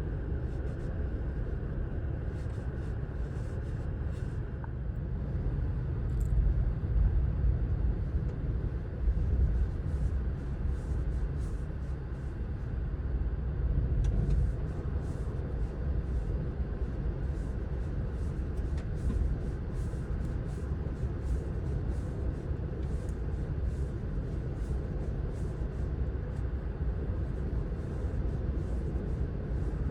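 Strong, gusty Santa Ana wind rumbling on the microphone, swelling louder in gusts about six to ten seconds in and again around fourteen seconds in.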